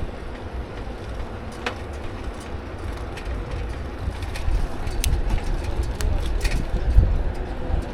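Riding noise from a bicycle-mounted camera: wind rumbling on the microphone over tyre and road noise, growing louder in the second half, with a few sharp clicks and knocks.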